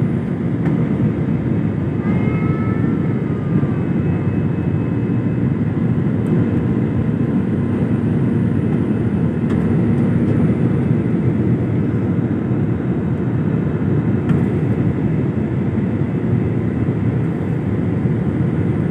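Airplane engine noise: a steady, loud rumble with no change throughout, and a short, high wavering sound about two seconds in.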